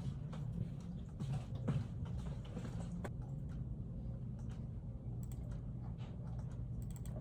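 Computer keyboard typing: irregular, scattered keystrokes over a steady low hum.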